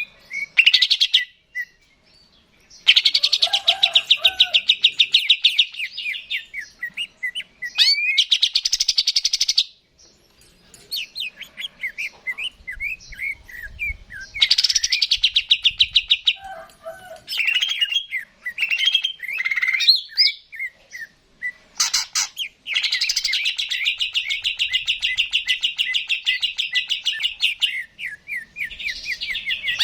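Cucak ijo (green leafbird) singing: long, fast rattling trills alternating with runs of quick rising and falling chirps.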